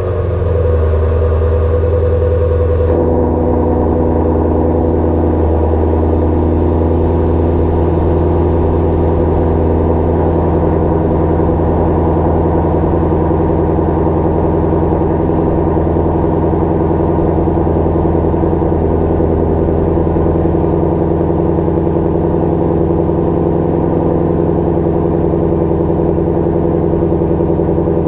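2016 Shelby GT350's 5.2-litre flat-plane-crank V8 idling steadily just after a cold start. About three seconds in, the idle settles slightly lower and quieter.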